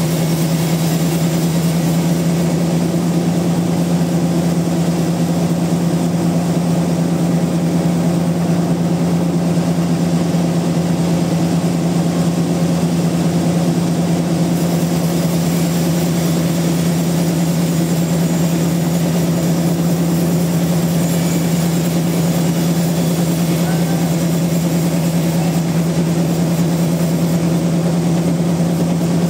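Sawmill machinery running with a steady, unchanging low hum.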